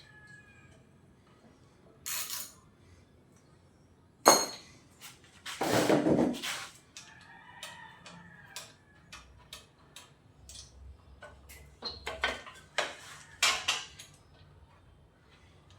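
Hand tools and metal motorcycle parts clinking and clattering, with a sharp knock about four seconds in, a longer rattling noise around six seconds, and a run of clicks near the end.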